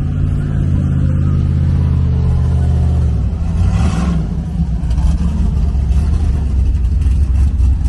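A car engine running close by, holding a steady low note for about three seconds, then shifting in pitch around four seconds in and running on.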